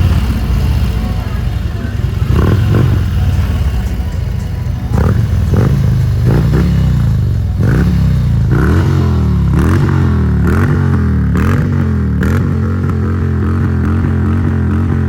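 A Harley-Davidson CVO Street Glide's 117 ci Milwaukee-Eight V-twin running loudly through its exhaust, with a few sharp throttle blips. About halfway through it settles into repeated revs, its pitch rising and falling about once a second.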